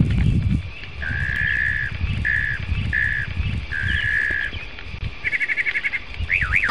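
Birds calling: a run of steady whistled notes, some short and some held for about half a second, then a fast trill about five seconds in. A low rumble runs underneath.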